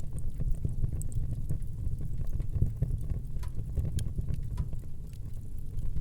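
Wood fire burning in a fireplace: a steady low rushing of the flames with scattered sharp crackles and pops from the burning logs.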